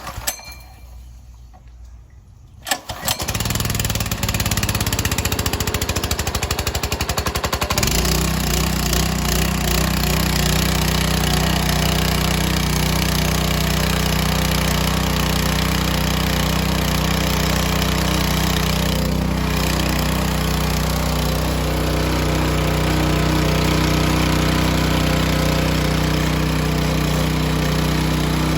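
Gasoline engine of a BE pressure washer pull-started on its first start: two sharp yanks of the recoil starter, and it catches on the second about three seconds in. It runs unevenly for a few seconds, then settles into steady running about eight seconds in.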